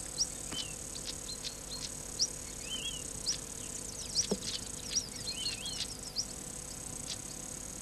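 Small birds chirping and twittering: many short, high chirps and little warbling calls scattered irregularly, over a faint steady hum.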